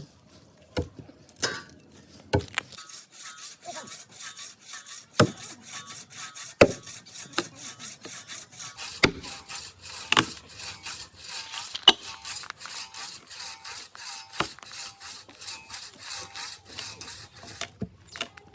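A hand saw cutting through wood in quick, regular back-and-forth strokes that start a few seconds in and stop just before the end. Sharp knocks on wood are heard among the strokes and before them.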